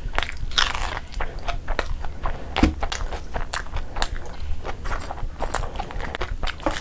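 Close-miked eating sounds: wet chewing and irregular mouth clicks and smacks as curry-soaked food is eaten by hand.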